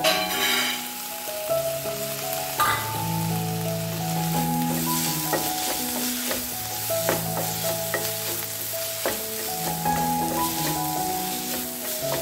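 Chopped tomatoes sizzling as they are tipped into hot masala in a non-stick pan, louder near the start, then a steady frying sizzle with the scrape and knock of a wooden spatula stirring. Background music of held notes plays throughout.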